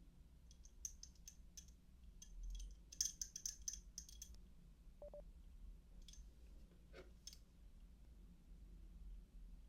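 Socket wrench ratchet clicking softly in short runs, densest about three seconds in, with a few scattered clicks later on.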